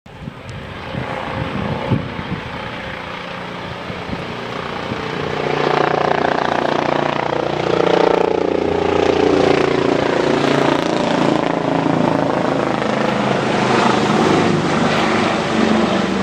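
Helicopter's engine and rotor running, growing louder from about five seconds in and then staying loud and steady.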